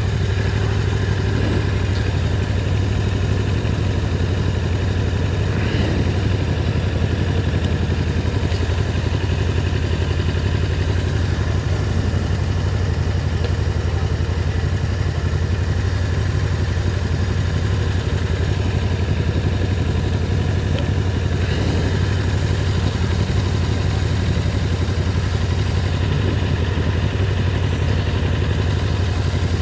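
Motorcycle engine running steadily while riding at an even pace.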